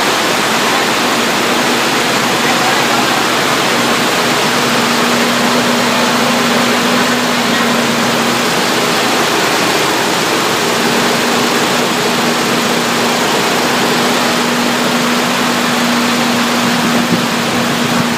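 BMW 528e (E28) 2.7-litre straight-six engine running steadily at an even speed with a constant hum, running well.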